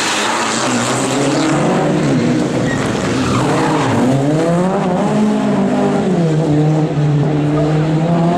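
Rally car engine running hard, its pitch dipping and rising several times before holding steady near the end.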